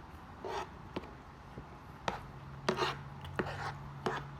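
Eating sounds: chewing and mouth smacks while eating barbecue ribs, heard as a handful of short, irregular bursts with small clicks.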